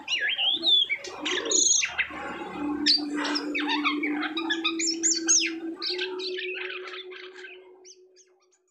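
A jalak kapas (jalak sutra) starling singing a fast, varied medley of whistles, chirps and harsh squawks, over a steady low hum, fading out near the end.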